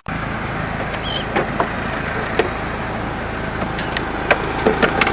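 Steady rushing outdoor noise with a low engine hum underneath, broken by a few light knocks and a short high squeak about a second in.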